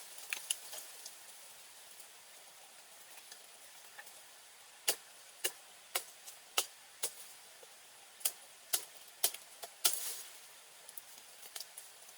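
A run of sharp clicks or knocks, about two a second, starting about five seconds in and stopping near ten seconds, over a faint steady hiss.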